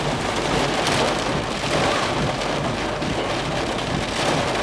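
Steady rain falling during a thunderstorm, an even hiss with fine patter throughout.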